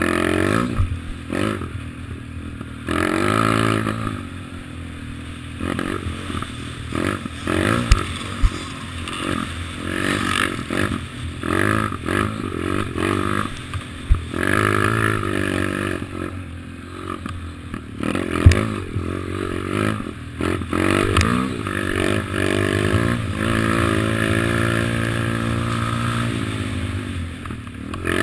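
Kawasaki KLX110 pit bike's small single-cylinder four-stroke engine riding along, revving up and dropping back over and over as the throttle is worked, with a few sharp knocks.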